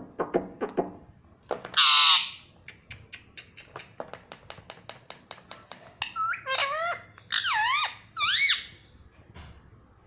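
Ringneck parrot calling: one loud harsh screech about two seconds in, then a quick run of clicks at about six a second, then several loud warbling whistles that sweep up and down in pitch.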